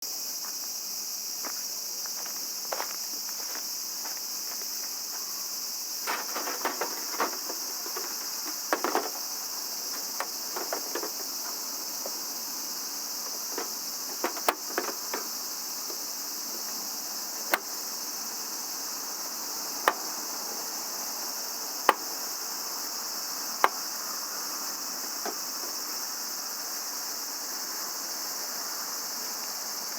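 Steady high-pitched chorus of crickets and other night insects, with scattered sharp knocks and clicks: a cluster in the first half, then single cracks about two seconds apart.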